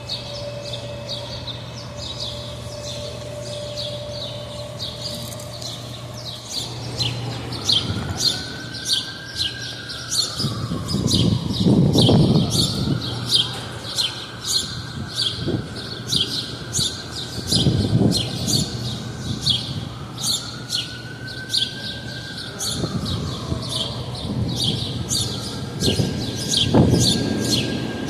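Small birds chirping rapidly and continuously, about two chirps a second. A siren wails up and down twice, and there are low rumbling swells from about a third of the way in.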